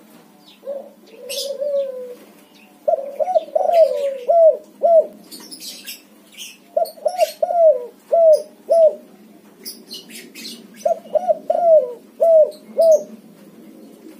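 Spotted dove cooing: a couple of single coos in the first two seconds, then three repeated phrases of five or six coos each, about four seconds apart.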